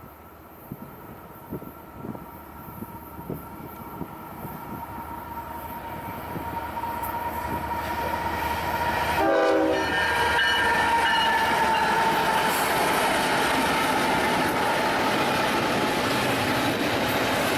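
Union Pacific train approaching, growing steadily louder, with a short horn blast about nine seconds in, then passing close by in a loud, steady rumble with the clatter of wheels on the rail joints.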